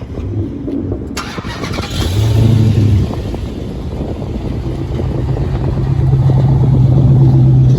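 Car engine running close by: it swells louder about two seconds in, eases back, then settles into a steady drone that grows slightly louder toward the end.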